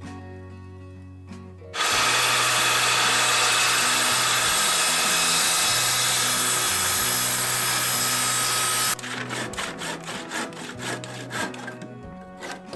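A power tool working wood runs steadily and loudly for about seven seconds, stops, and is followed by a quick run of sharp clicks or knocks, about four or five a second, with background music throughout.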